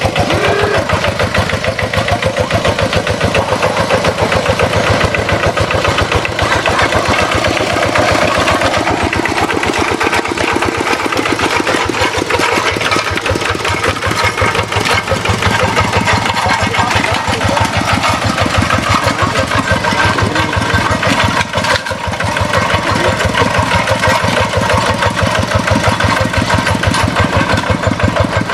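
Paddy-field tractor engine running steadily with a rapid, even beat.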